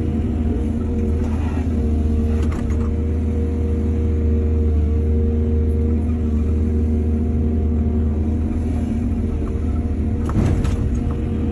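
Excavator engine running steadily under load, a low even drone, with two short clattering noises, about two and a half seconds in and again near the end.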